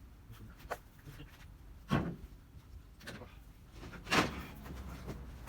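Corrugated iron roofing sheets being handled, giving a few separate clanks and scrapes. The loudest come about two seconds in and again a little past four seconds.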